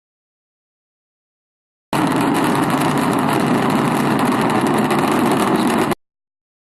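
Jet engine of a jet-powered show vehicle running with a steady, loud rushing noise. It cuts in abruptly about two seconds in, after dead silence, and cuts off again near the end.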